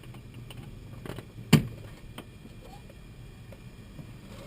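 Engine primer plunger in a Cessna 172N cockpit being unlocked and worked: one sharp click about a second and a half in, with a few fainter clicks around it, over a steady low hum.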